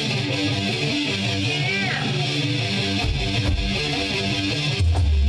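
Amplified electric guitar playing chords in a band jam, with a short bend in pitch about two seconds in and a deeper low note coming in near the end.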